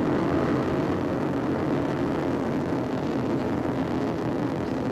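Ariane 4 rocket climbing shortly after liftoff: its first-stage Viking engines and strap-on boosters burning, giving a steady, even noise that is heaviest in the low and middle range.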